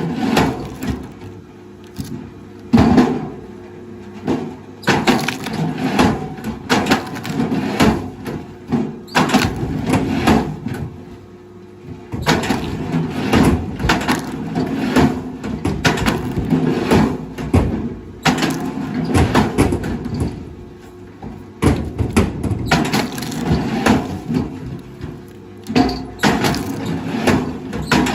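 Wood cracking and splintering in a long run of sharp cracks and crunches, over a steady low machine hum.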